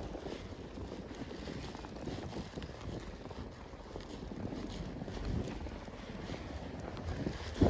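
Snowstorm wind rumbling and buffeting on the microphone, steady throughout.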